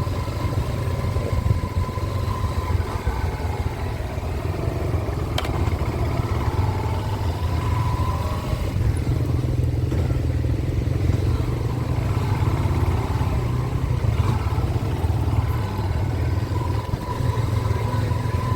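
Small-displacement motorcycle engine running steadily, with a constant low rumble and a faint whine that comes and goes.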